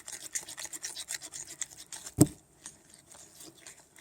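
A mixing tool scraping quickly and repeatedly in a container of jelly slime as liquid tint is stirred in, with one loud knock about two seconds in.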